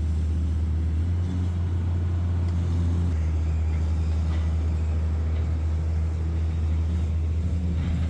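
Heavy machinery engine running with a steady low drone while the machine is manoeuvred into place, its note shifting slightly about one and three seconds in.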